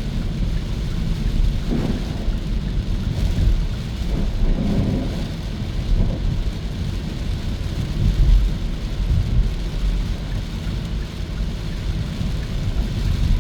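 Steady low rumble of road and wind noise from a Hyundai Kona EV driving along, with no engine note. A brief louder rush comes about four to five seconds in.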